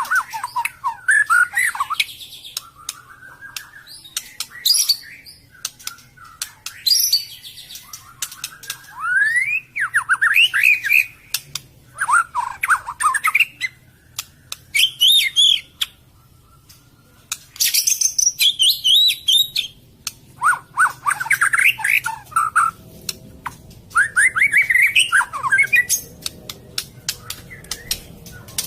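White-rumped shama (murai batu) singing: a run of short, varied phrases of rising and falling whistled notes, separated by brief pauses, with many sharp clicks in between.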